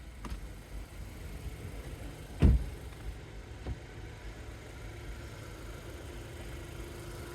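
Car engine running with a steady low rumble, with one loud thump about two and a half seconds in and a couple of lighter knocks.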